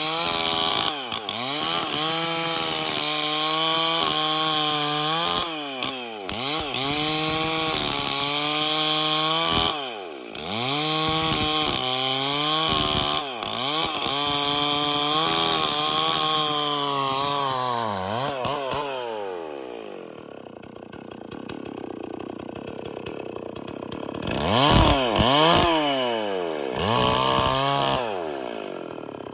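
Stihl MS440 two-stroke chainsaw running at high revs, its pitch repeatedly dipping and recovering as it loads in the cut. About two-thirds of the way through it winds down to idle, then is revved twice briefly near the end.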